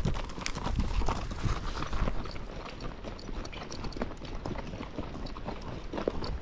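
Icelandic horse's hooves striking the ground in a steady run of hoofbeats as it moves along a trail.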